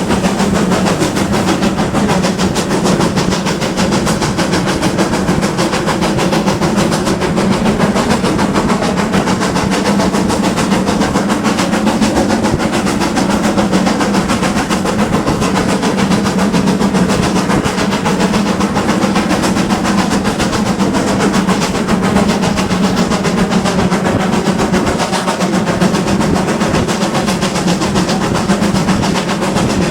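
Steam-hauled train running steadily: a continuous rumble and clatter of wheels on the rails with the engine working.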